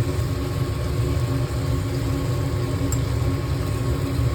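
Steady low mechanical hum of a running fan motor, with a faint constant whine above it.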